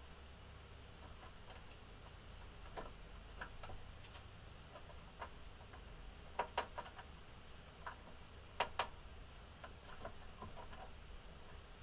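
Scattered small sharp clicks and taps from pet budgerigars moving about, the loudest coming as two quick double clicks in the second half, over a faint steady low hum.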